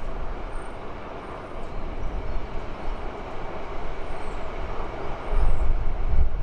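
High Capacity Metro Train, an electric suburban train, running along the track at a distance with a steady rumbling hiss of wheels on rail. A louder, uneven low rumble comes up about five seconds in.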